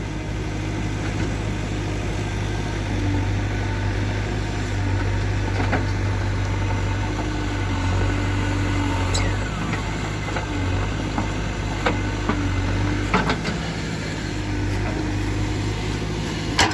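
Diesel engine of a JCB 3DX backhoe loader running steadily, with a few sharp knocks scattered throughout.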